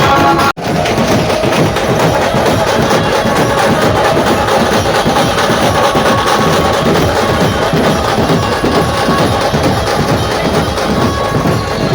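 Dhumal band music played loud, dense and percussion-led, with a wood-block-like clack in the beat. The sound cuts out for an instant about half a second in, then carries on.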